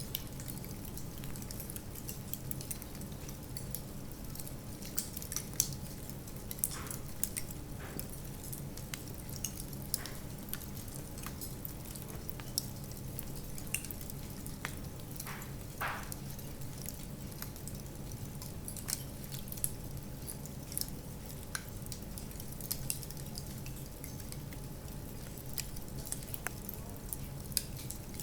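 Wood fire burning in a fireplace, crackling with irregular sharp pops over a low steady rumble. A few brief hisses come through about halfway.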